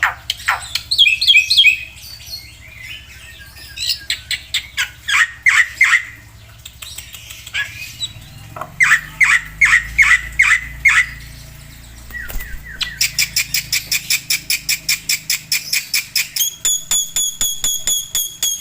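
Black-winged myna (Javan white starling) singing a long, varied song full of mimicked phrases: runs of sharp repeated notes and harsh squawks, then fast chattering, and near the end a rapid, ringing trill.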